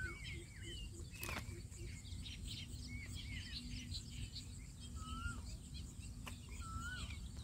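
Birds calling: short whistled notes that rise and fall, repeated every second or two, with scattered higher chirps. A single sharp click about a second in.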